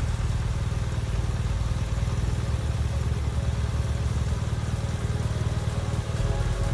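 Motorcycle engine running steadily, a fast even pulsing throb.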